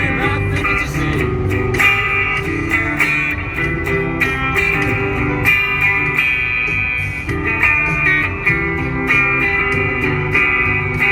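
Electric guitar played through a small Spark modelling amp, picking single notes and chords in a steady rhythmic riff.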